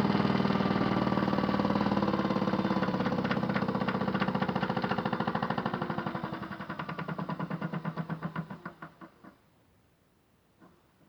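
Electric motor of a modified Miele W1 toy washing machine running steadily, then slowing with a pulsing beat that gets slower until it stops about nine seconds in, as the drum coasts to a halt.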